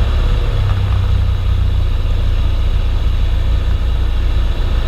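Cessna 172's piston engine and propeller heard from inside the cabin: a steady low drone at reduced power on final approach.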